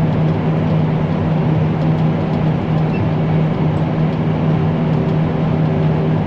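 Farm machine engine running steadily at constant speed, a continuous even drone with a steady low hum.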